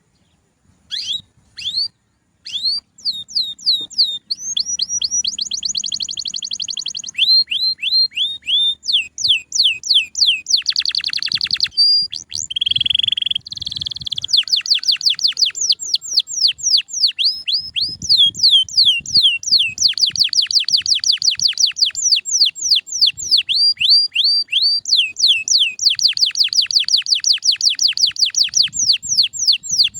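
Male domestic canary singing a long, continuous song of rapid trills and rolls: runs of quick repeated downward-sliding notes that change from phrase to phrase, with a few buzzy steady-pitched phrases.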